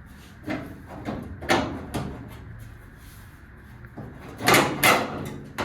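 Sheet-metal cowl panel being lifted off a car body, clanking and scraping against the metal. Several knocks, with two loud bangs close together near the end.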